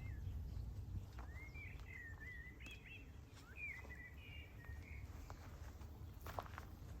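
A songbird singing one warbling phrase of about four seconds, with quick rising and falling notes, over a steady low rumble. There are a couple of soft knocks near the end.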